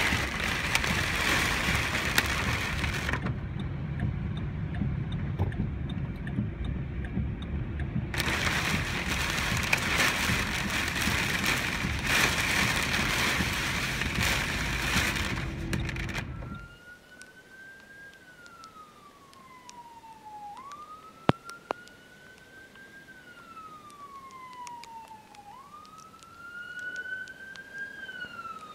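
Heavy rain pounding on a car, heard from inside through the windshield, as a loud, dense noise. About sixteen seconds in it gives way abruptly to a quieter scene where an emergency vehicle's siren wails, rising quickly and falling slowly about every five seconds.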